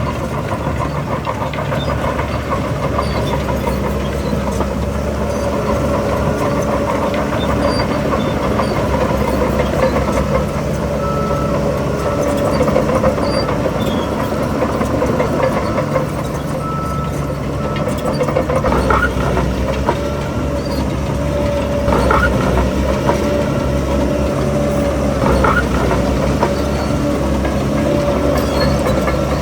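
Crawler bulldozer's diesel engine running steadily under load, with the steel tracks clanking and squealing. A few sharp metallic clanks come in the second half.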